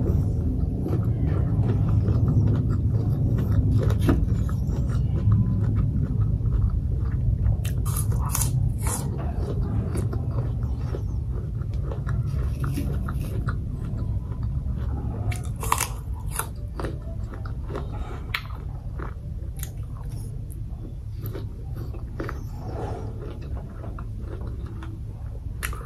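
Close-miked chewing and biting of food, with scattered moist clicks and a few crunches, slowly getting quieter.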